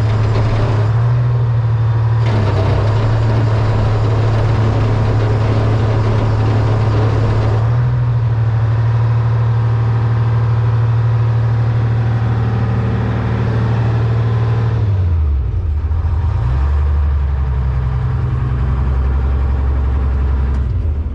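The diesel engine of a 1978 Hein-Werner 25-ton excavator running steadily at working revs, with a harsher clatter and hiss laid over it between about two and eight seconds in. About fifteen seconds in, the revs dip and settle to a lower, steady idle.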